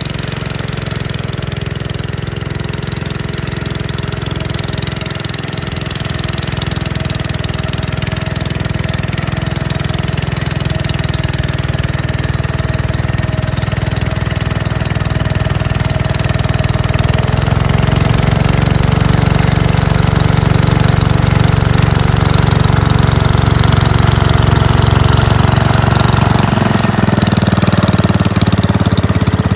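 Gravely Commercial 10A walk-behind tractor's engine running steadily, working its Dogeater snowblower. The sound slowly grows louder and shifts in pitch about 17 seconds in and again near the end, as the engine's speed or load changes.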